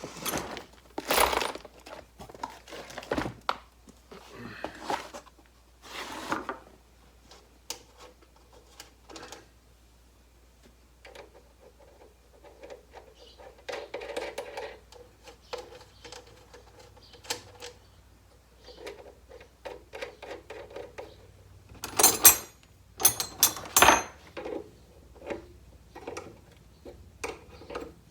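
Intermittent clicks, clinks and rustling of hand tools and small metal parts being handled, with a cluster of louder sharp clatters about three quarters of the way through.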